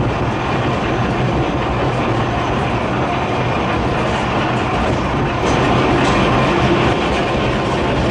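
A Volk's Electric Railway car running along its track, heard from inside: steady running noise of the wheels on the rails. It grows a little louder, with a couple of sharp clicks, about five and a half seconds in.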